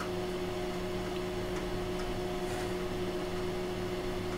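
Steady hum and fan noise of powered-up electronic test equipment, with a few faint ticks.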